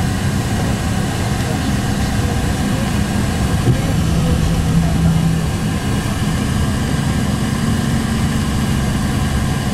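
A vehicle's engine running steadily, a low even drone.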